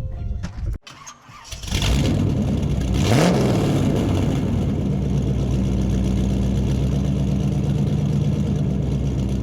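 Toyota MR2 Roadster's four-cylinder engine starting about two seconds in, with a quick rev a second later, then settling into a steady idle.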